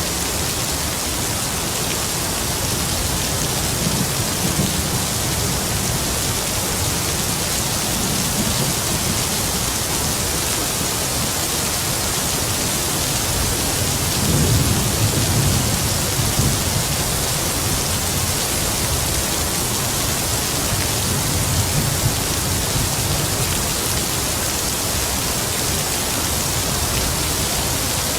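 Heavy rain falling steadily, with distant thunder rumbling low several times, loudest about halfway through.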